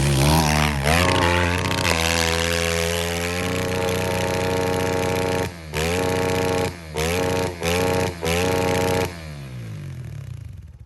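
Kawasaki pit bike engine revving hard. Its pitch swoops up and down for the first couple of seconds, then holds at high revs. The throttle is chopped and reopened four times in quick succession, and then the engine winds down and fades near the end.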